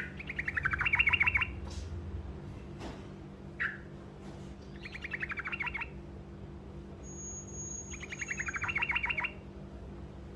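A songbird giving short rolling trills, three bursts of rapid repeated notes each lasting about a second, with a brief single call between them. A steady low hum runs underneath.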